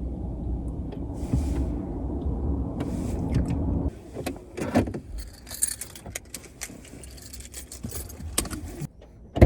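Steady low rumble of a car on the move for about four seconds, then it cuts off and gives way to scattered clicks and a light metallic jingling.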